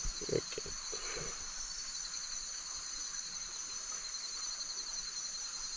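Steady chorus of night-calling insects: a continuous high-pitched trill, with a short spoken word just after the start.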